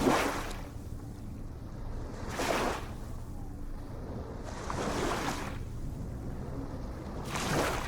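Small ocean waves breaking and washing up, a short splash roughly every two and a half seconds over a steady low rumble of surf.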